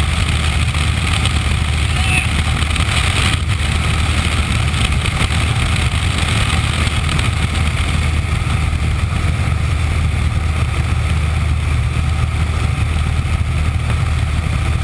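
Aircraft engine and propeller droning steadily with a constant low hum, no change in pitch or level.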